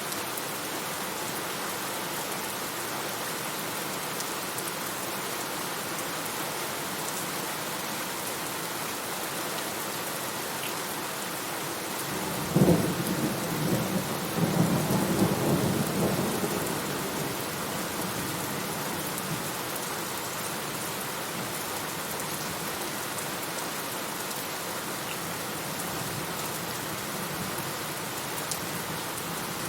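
Steady rain falling, with one thunderclap about halfway through: a sudden crack followed by about four seconds of rumbling that dies away.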